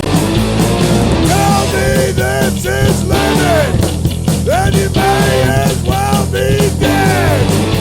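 Skinhead rock 'n' roll band recording playing loud and steady: electric guitar, bass and drums, with a melody line arching over the band from about a second and a half in.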